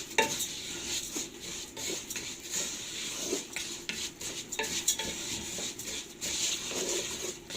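A metal spoon stirring lisan al-asfour vermicelli in a pot of hot oil and ghee, with irregular clinks and scrapes against the pot over a light sizzle, as the vermicelli starts to brown.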